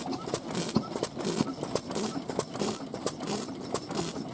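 Old stationary engines running, with sharp exhaust knocks at an uneven beat of about two to three a second and hissing puffs in between.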